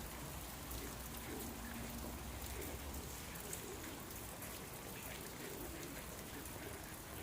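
Heavy rain falling steadily, with a dense patter of individual drops hitting surfaces.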